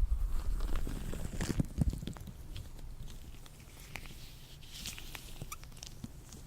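Latex gloves handled and rubbed close to the microphone: a dense run of small crackles, snaps and rubbery rustling, with low bumps in the first two seconds, then lighter, sparser crackles.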